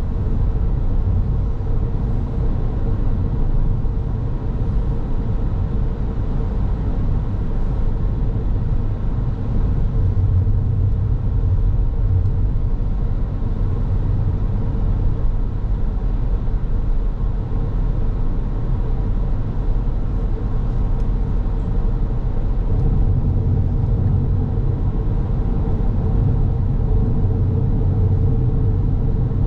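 A car's steady driving noise, a low rumble of tyres on the road and the engine, with a steady faint hum running through it.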